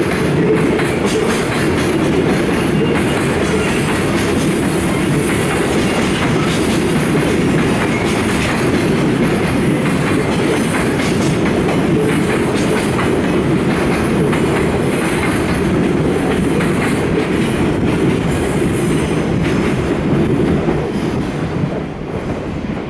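Freight train of Koki container flatcars rolling past, a steady rumble with wheels clattering over the rail joints, growing quieter near the end.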